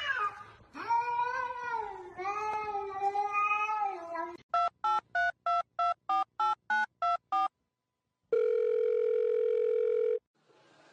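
Cat meowing twice in long drawn-out calls that rise and fall. These are followed by a quick run of about eleven short electronic beeps like phone keypad tones, then a steady beep lasting about two seconds.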